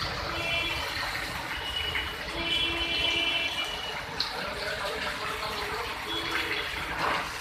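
Rain falling steadily, an even hiss, with faint held tones coming and going over it.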